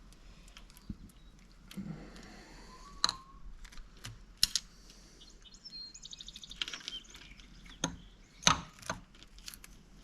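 Engine parts being handled and set in place on the bench during an engine rebuild: scattered sharp metallic clicks and knocks, with a brief rattle of quick small ticks about two-thirds of the way through.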